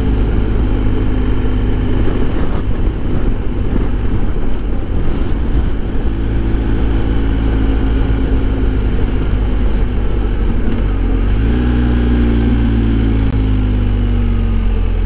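Wind rushing inside a motorcycle helmet at road speed, over the low, smooth hum of a BMW R1250 GS Adventure's 1250 boxer twin engine. About three quarters of the way through, the engine note rises in pitch and then slowly falls.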